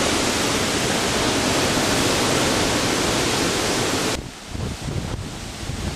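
Strong wind blasting the microphone in a steady rush that drops off suddenly about four seconds in, leaving lighter gusts that come and go.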